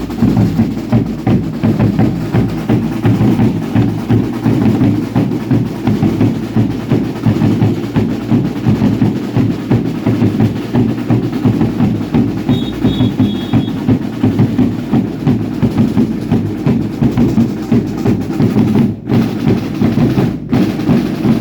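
Drums of a baile indio dance troupe beating a steady, driving rhythm.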